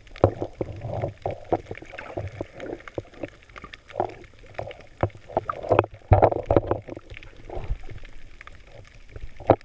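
Muffled water sloshing and splashing in irregular bursts, with no voices.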